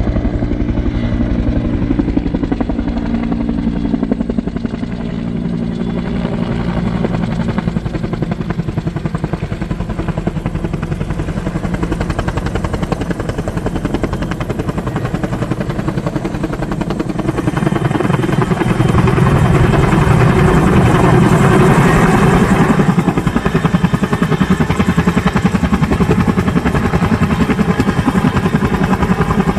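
Helicopter running with a steady, fast rotor beat, getting louder about two thirds of the way through.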